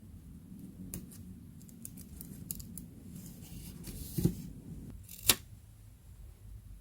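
Scissors cutting paper: a run of small snips and a papery rustle, then a thump and one sharp, louder snap about five seconds in.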